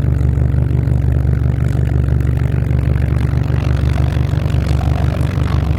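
Car engine idling close by, a loud steady low rumble.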